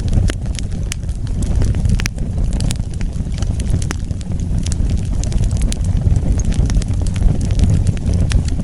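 Wood fire crackling: a steady low rumble under frequent sharp pops and snaps.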